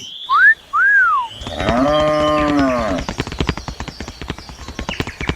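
Two short whistles that rise and fall, then a cow mooing for about a second and a half, followed by a fast run of clicks.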